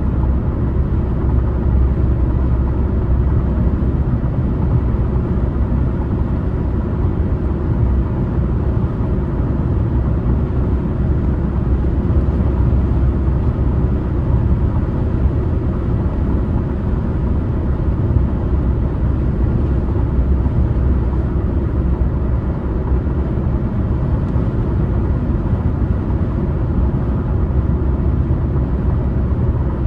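Steady low rumble of a car driving at road speed on a highway: tyre and road noise with engine drone, even throughout.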